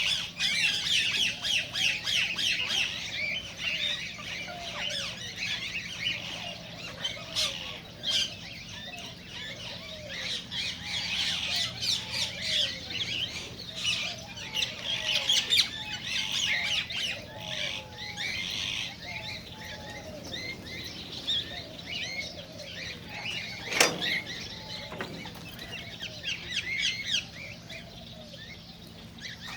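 A group of cockatiels chirping and calling continuously, many short overlapping chirps with some lower gliding calls, and one sharp knock late on.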